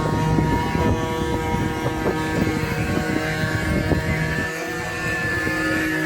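Wooden ox cart (carro de boi) axle singing as the cart rolls: a steady, whining chant of several held tones at once, shifting pitch about four and a half seconds in, over frequent knocks and creaks from the wheels.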